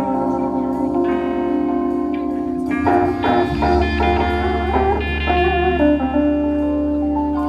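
Live band music at a sound check, led by guitar: held notes, then a quick run of plucked notes about three seconds in, as a deep low note comes in underneath.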